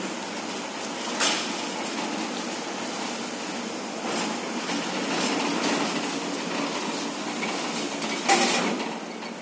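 Class 455 electric train running past: a steady, even noise with several sharp knocks, the loudest about eight seconds in.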